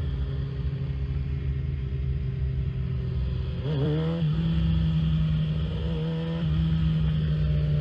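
Vehicle engine running steadily at idle, its pitch stepping up slightly about four seconds in.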